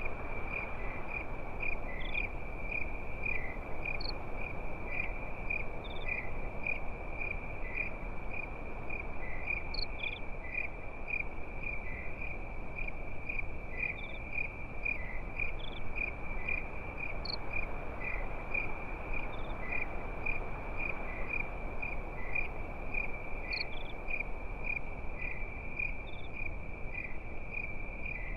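Crickets chirping at night, a steady high trill pulsing about three times a second, with fainter higher chirps now and then over a soft, even rushing noise.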